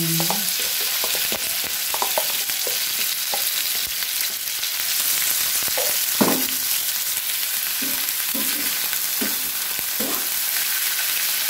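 Dried salted anchovies sizzling steadily as they fry in hot oil in a frying pan, with a few short scrapes of a metal spatula stirring them in the second half.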